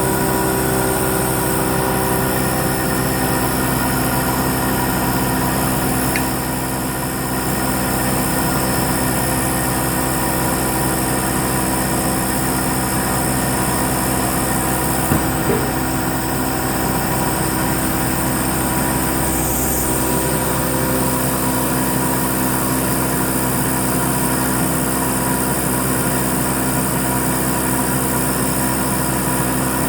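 Hurco MB-1 milling machine running steadily while milling letters: a constant mechanical hum with several steady tones. There is a short dip about six seconds in and a brief click about fifteen seconds in.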